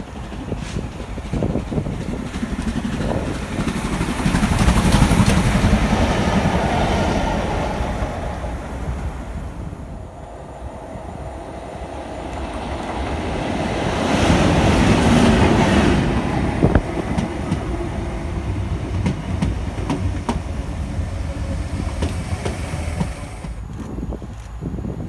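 Trains passing through a station one after another: an LMS Black Five steam locomotive goes by, loudest about five seconds in. After a lull a class 90 electric locomotive passes, loudest about fifteen seconds in, its wheels clattering over the rail joints. Near the end a class 66 diesel freight locomotive approaches.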